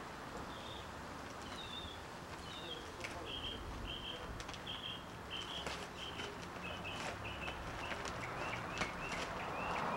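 A small bird chirping a long run of short, high repeated notes, about three a second, over steady outdoor background noise, with a few faint clicks.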